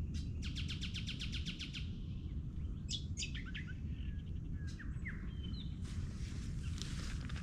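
Wild birds calling: a fast trill of about fifteen short notes, then several short whistled notes that rise and fall, over a steady low rumble.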